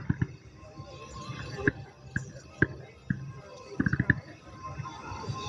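Fireworks going off: irregular sharp bangs with a low rumble after each, and a quick cluster of several about four seconds in, over background music.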